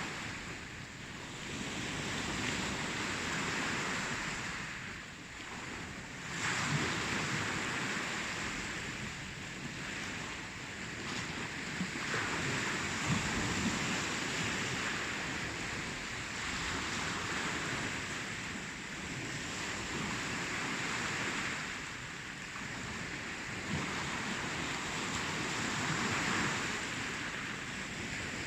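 Ocean waves breaking and washing on a shore, a continuous surf that swells and ebbs every few seconds.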